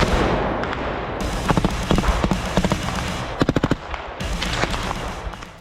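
Gunfire from rifles in combat: scattered single shots, then a rapid burst of about six shots a little past halfway, with background music underneath.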